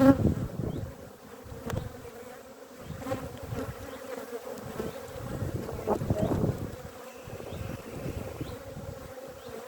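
Honeybees buzzing around an open hive as brood frames are lifted out, a steady hum of many bees with a louder swell about six seconds in.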